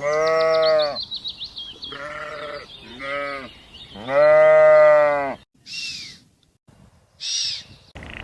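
Farm animal bleating: four wavering bleats, the last the longest and loudest, followed by two short, high, falling calls. Faint chirping can be heard under the first bleats.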